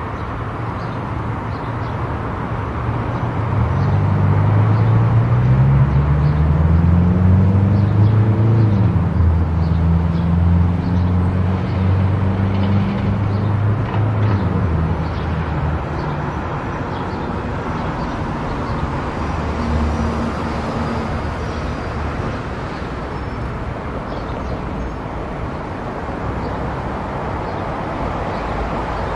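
Car driving on a highway: steady tyre and road noise. A low engine drone grows louder about three seconds in, rising in pitch in steps, and fades back to plain road noise about fifteen seconds in.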